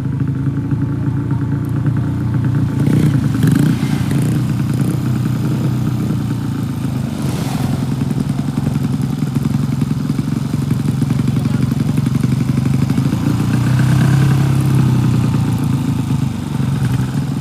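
Drag-racing motorcycle engine running steadily and loudly with a rapid pulsing beat. Its pitch lifts slightly about three seconds in and again around fourteen seconds.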